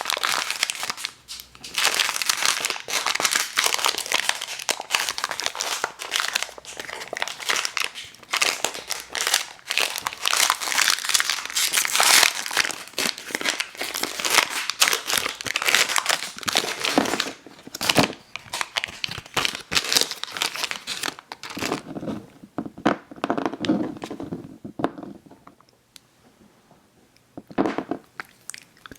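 Candy packaging being crinkled and torn open close to the microphone, a dense crackling that runs for about twenty seconds. It then turns softer and lower, drops out briefly, and gives one short crinkle near the end.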